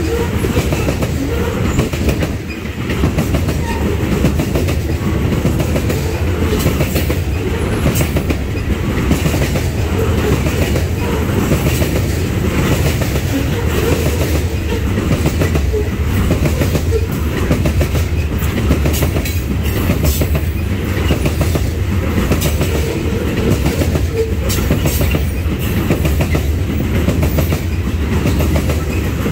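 Loaded coal hopper cars of a freight train rolling past at steady speed: a continuous low rumble of steel wheels on rail, with frequent sharp clicks from the wheels and car bodies.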